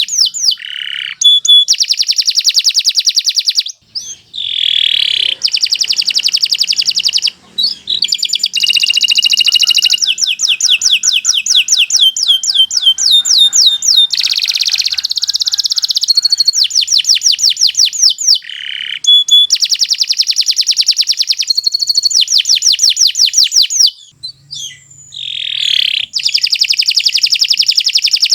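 Domestic canary singing a long, continuous song of fast trills, each phrase a rapid run of repeated notes. There are a few short pauses and some falling notes between phrases.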